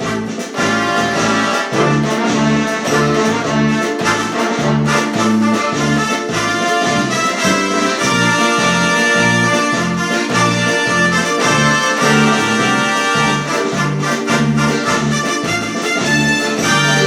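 Accordion playing a brisk march tune over a steady, regular alternating bass.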